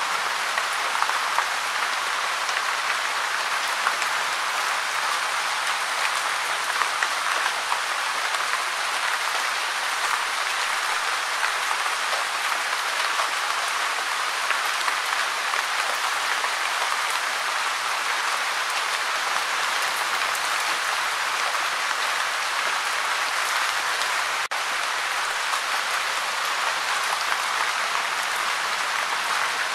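Steady gentle rain, a dense, even patter of raindrops, with a split-second dropout about three-quarters of the way through.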